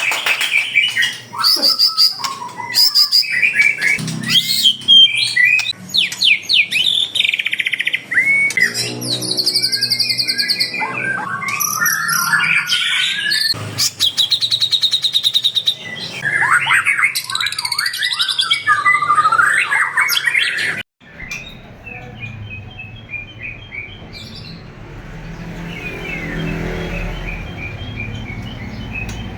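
Songbirds singing loudly in a dense mix of whistles, rapid trills and chirps. About two-thirds of the way through this stops abruptly and gives way to fainter, repeated chirping over a low rumble.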